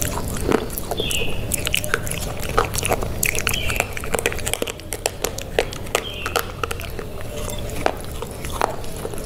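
Close-miked biting and chewing of a piece of chocolate bar: many sharp, crisp snaps and clicks of the bite breaking and being chewed.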